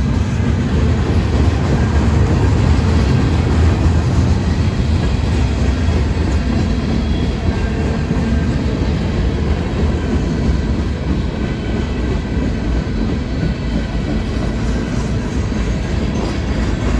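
CSX mixed freight train rolling past, its cars' steel wheels running on the rails in a steady, loud rumble with some clickety-clack.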